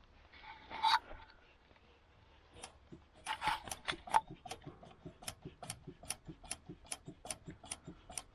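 A short clatter about a second in, then a steady run of sharp clicks, about two to three a second.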